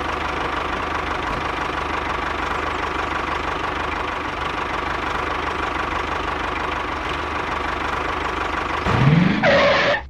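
Tractor-style engine sound running steadily at an even pace as the miniature DIY tractor pulls two trailers. Near the end comes a rising whine and a short, louder, brighter sound that stops abruptly.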